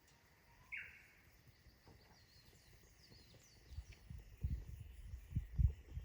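Wild birds calling: one sharp, falling call about a second in, then fainter high chirps. Several low thumps near the end.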